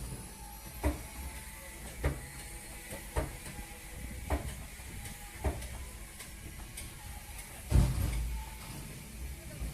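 Block ice being loaded onto a boat: sharp knocks about once a second over a low steady rumble, with one heavier thump near the end.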